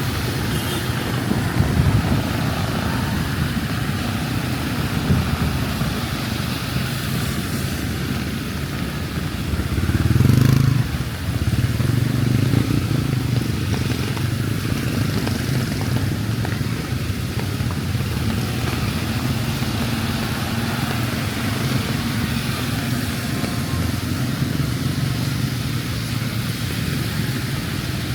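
Rain falling steadily while motor traffic runs along a wet road, engines humming low. About ten seconds in, one vehicle passes close and louder.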